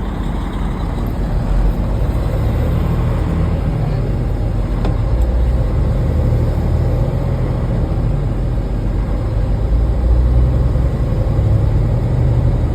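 Semi truck driving at road speed, heard from inside the cab: a steady low engine drone under continuous road noise.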